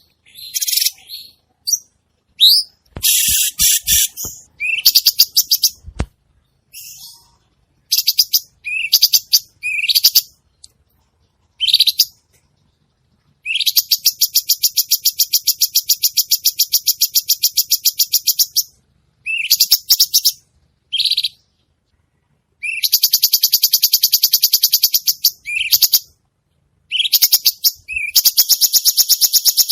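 Cucak cungkok songbird singing: short high chirps and phrases, then several long, fast, buzzy trills lasting up to about five seconds. There are a few sharp clicks and a low thump in the first few seconds.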